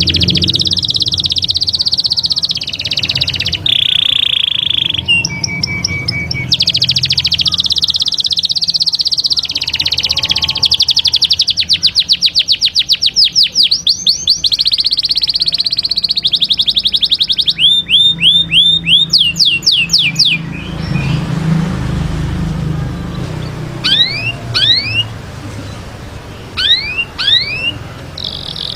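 Canary singing a long, varied song of rolls and trills, with a fast run of rapidly repeated notes in the middle, breaking off about two-thirds of the way through; after that only a few short, falling chirps. A low steady hum lies underneath.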